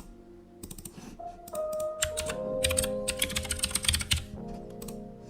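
Typing on a computer keyboard: quick runs of key clicks, densest in the middle, over background music with held tones.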